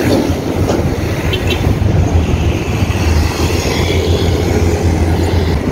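Steady rumble of wind on the microphone of a camera on a moving bicycle, mixed with the noise of motor traffic on a busy road.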